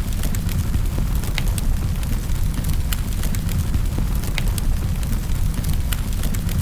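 Wood fire crackling in a fireplace: sharp crackles and pops every second or so over a steady low rumble.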